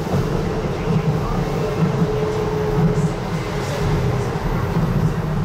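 Docklands Light Railway train running along the line: a steady rumble of wheels on track with a thin humming tone through it.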